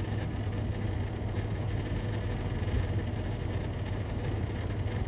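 Steady drone of a semi-truck's engine and road noise, heard from inside the cab while driving.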